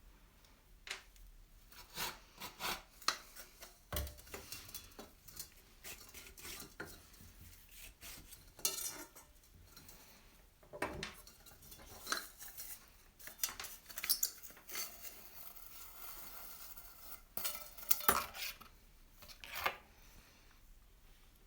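Metal parts of an old oil lamp being handled: irregular clinks and knocks of metal on metal, with short scraping and rubbing sounds in between.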